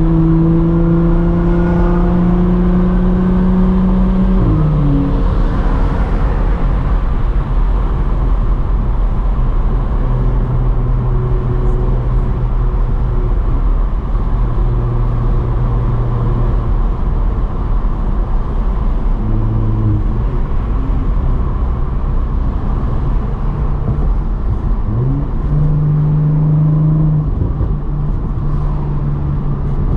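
Audi S4 being driven: a steady low road rumble under the engine's hum, which drops in pitch about four seconds in, like an easing off or gear change, and climbs again around 25 seconds in.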